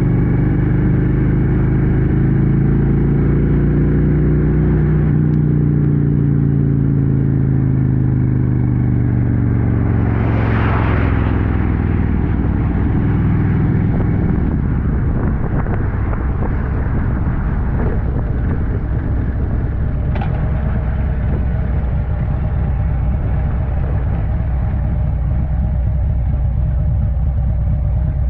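Motorcycle engine running while riding, its pitch falling over the first dozen seconds as it slows, then a steadier running sound with road rumble. A brief rushing whoosh passes about ten seconds in.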